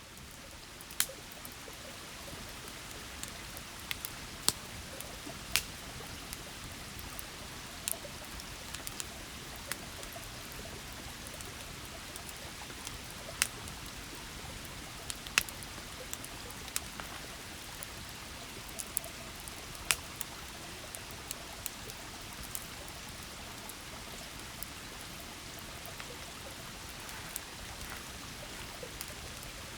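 River babbling steadily: a constant rush of flowing water, with scattered sharp ticks at irregular moments.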